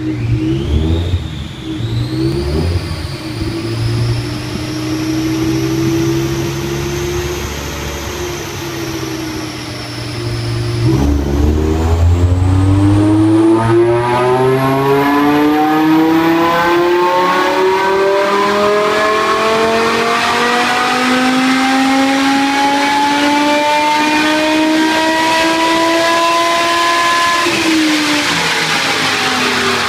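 BMW E60 M5's V10 engine through a custom stainless steel exhaust: it runs at a steady note with a deep rumble for about ten seconds, then accelerates in one long pull, its note climbing steadily for about sixteen seconds before dropping off near the end.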